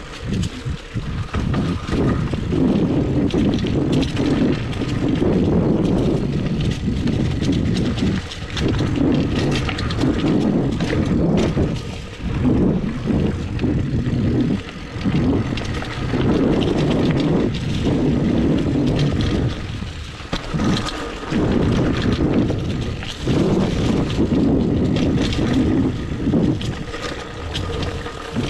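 Mountain bike riding over a dirt singletrack trail: wind rushing over the microphone with the bike's tyres rumbling on the ground and frequent rattles and clicks from the bike over bumps, swelling and easing every second or two.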